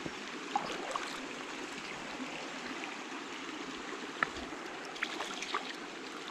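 Small rainforest stream running and trickling steadily over its bed, with a few faint short ticks scattered through it.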